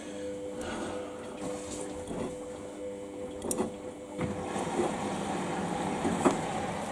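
Samsung washing machine running on its 15-minute quick wash cycle: a steady hum with the sound of water, which grows louder and more rushing about four seconds in.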